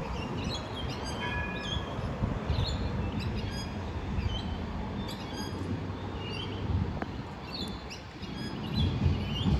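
Small birds chirping over and over, short high chirps, over a steady low rumble from a tram slowly approaching along the track.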